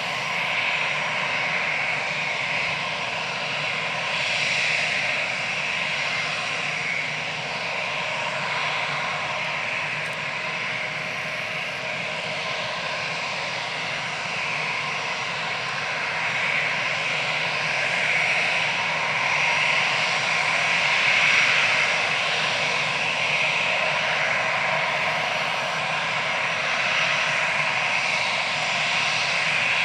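Airbus A320's CFM56-5A turbofan jet engines running steadily, a continuous rushing hiss with a steady whine.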